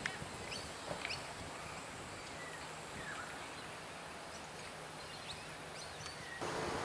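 Open-air ambience with birds calling: scattered short chirps and a couple of falling whistled calls over a steady background hiss, which grows louder near the end.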